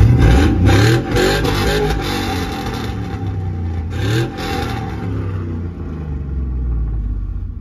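Pickup truck engine revved through its exhaust: a burst of revs from about half a second to two seconds in, a shorter rev around four seconds, then a steady low idle.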